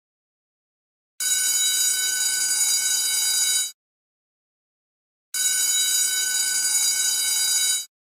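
School bell ringing in two steady bursts of about two and a half seconds each, starting about a second in and about five seconds in, with dead silence between them.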